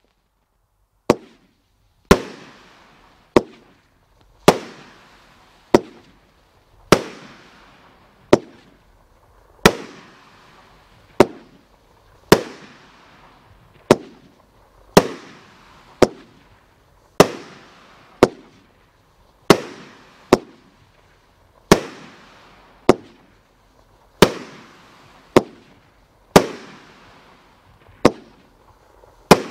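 Rain Maker 36-shot, 500-gram consumer firework cake firing shot after shot: a sharp bang roughly every second, some louder than others, each trailing off in a fading hiss and echo.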